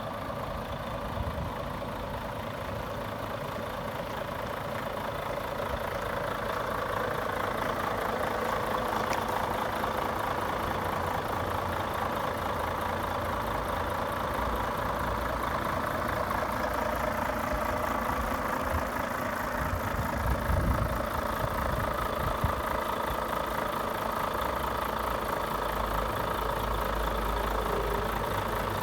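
Volvo FH500 truck's 13-litre six-cylinder diesel idling steadily, growing louder over the first several seconds, with a brief low rumble about two-thirds of the way through.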